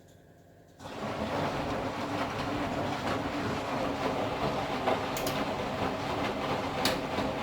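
Candy Formula Inox P 7.71X washing machine starting up abruptly less than a second in, then running loudly and steadily with a low hum, with two short sharp clicks later on.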